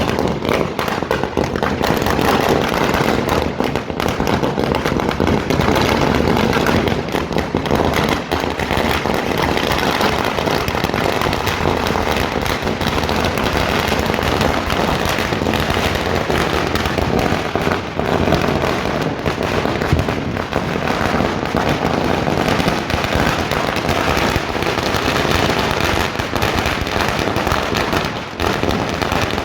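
A 5000-wala firecracker string (ladi) going off: a dense, unbroken rattle of rapid bangs that runs on for nearly thirty seconds.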